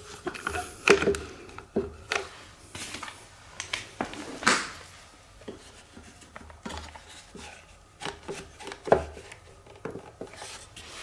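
Clamps being fitted and tightened to hold a piece of timber down on a drill press table: irregular metal clicks, wooden knocks and scraping, with a few sharper knocks scattered through.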